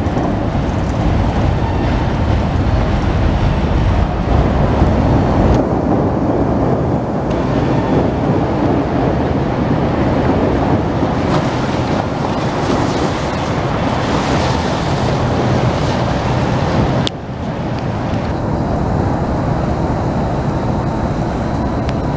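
Chicago 'L' rapid-transit train running over the steel elevated track structure: a loud, steady rumble that drops off suddenly about seventeen seconds in.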